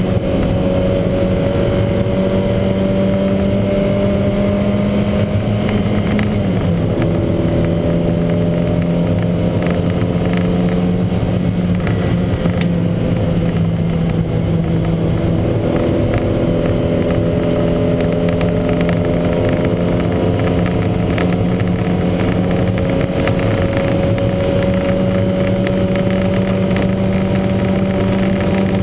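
Lancia Montecarlo's engine running hard under race load, its pitch climbing slowly with a sudden drop about six and a half seconds in. The car is suffering a huge misfire.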